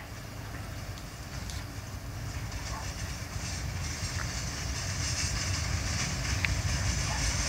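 Freight boxcars being shunted along the track by a D10H diesel locomotive, rolling slowly toward the listener: a low rumble that grows steadily louder, with a hiss rising from about halfway through and a few faint clicks.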